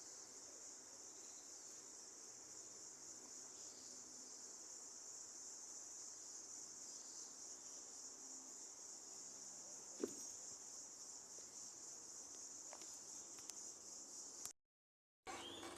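Faint, steady high-pitched insect chorus, with one sharp click about ten seconds in; the sound cuts out for under a second near the end.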